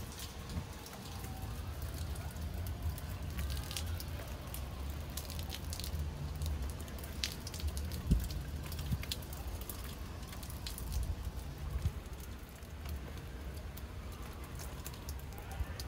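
Steady rain falling on a garden, with many scattered sharp taps and pattering drops hitting surfaces and puddles over a low rumble.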